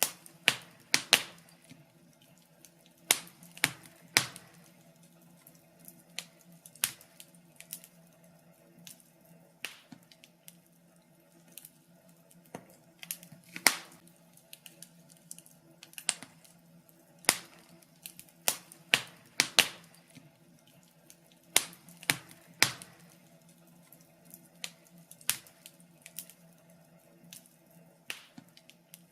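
Wood fire crackling: irregular sharp pops and snaps, some coming in quick clusters of two or three, over a faint steady low hum.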